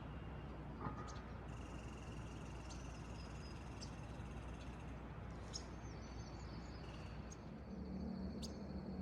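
Faint outdoor ambience of thin, high bird calls and insect-like chirps. A low hum comes in near the end.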